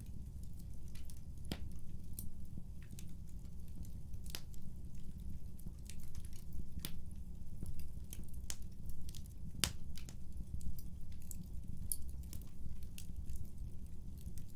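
Wood fire burning in a fireplace: a steady low rumble with irregular sharp crackles and pops. The loudest pops come about a second and a half in and just before ten seconds.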